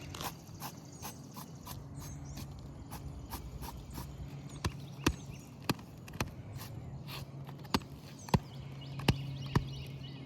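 Irregular sharp taps and clicks on an asphalt-shingle roof, a few spaced out in the first half and more in the second, over a steady low hum.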